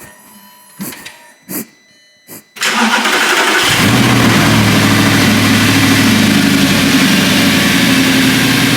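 A few short clicks, then the Audi R8's engine is cranked and fires about two and a half seconds in, and settles within a second into a loud, steady idle.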